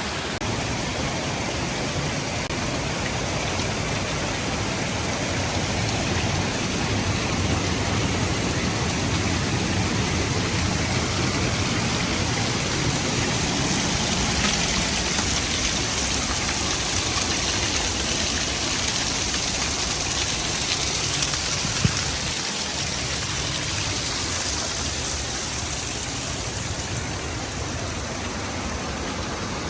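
A high waterfall rushing steadily, a constant dense roar of falling water.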